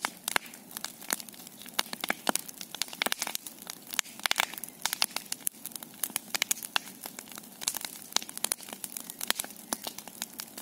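Large bonfire crackling, with frequent sharp snaps and pops at irregular intervals.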